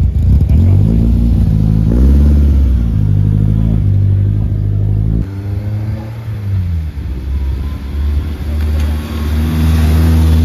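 Car engines revving: first a couple of rises and falls in revs, then, after a sudden cut, a light-blue BMW E36 Compact driving up and past, its engine note rising near the end.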